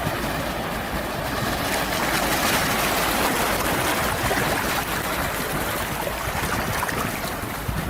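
Ocean surf: a steady rush of waves washing in, swelling about two to three seconds in and easing off toward the end.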